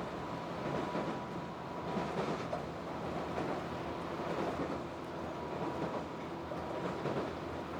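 Tobu 8000 series electric train running at speed, heard from on board: a steady rumble of wheels on rail joints, with a faint high whine that fades in and out.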